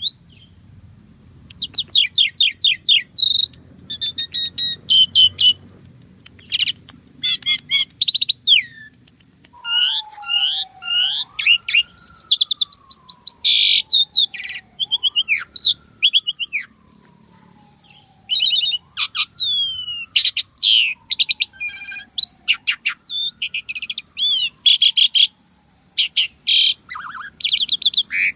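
Asian pied starling (jalak suren) singing a long, varied song of rapid chirps, whistles and rattling notes. Through the middle, a lower whistle slides slowly down in pitch and then jumps back up, four times.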